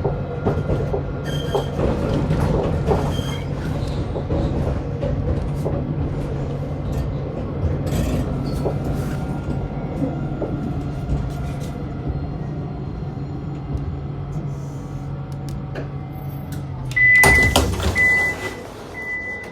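On board a tram: a steady low running hum that dies away about 16 seconds in as the tram stops, then a sudden loud burst of noise as the doors open, with three short high warning beeps about a second apart.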